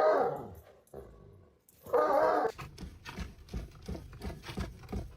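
A dog vocalizing: a loud call falling in pitch at the start and a second call about two seconds in, followed by a run of short, evenly spaced sounds about three a second.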